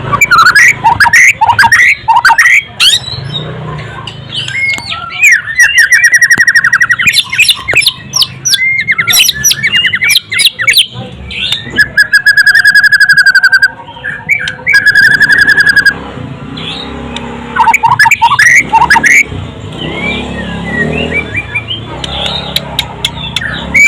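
White-rumped shama (murai batu) singing a loud, varied song of fast trills, sharp chirps and clicks, with two long steady whistles about halfway through.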